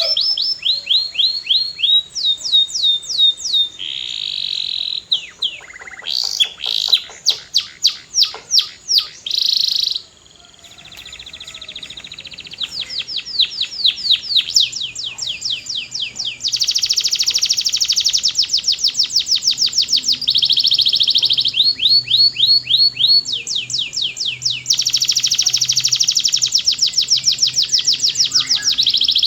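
Canary singing in long trills of rapid, repeated high notes, each sweeping downward, the pace changing from phrase to phrase. There is a short break about ten seconds in.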